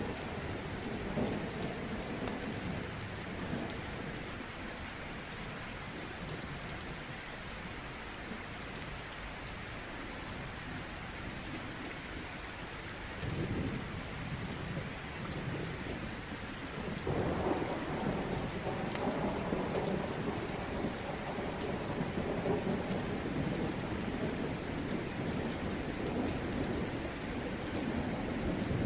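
Steady rain with rolling thunder: a low rumble about 13 seconds in and a longer, louder one from about 17 seconds on, over the fine crackle of a wood fire.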